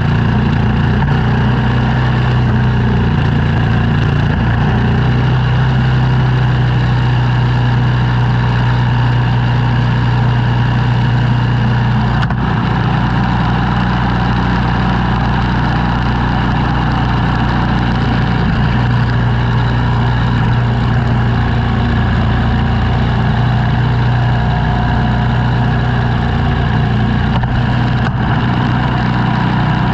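An engine running steadily with a deep, constant hum, from snow-clearing equipment.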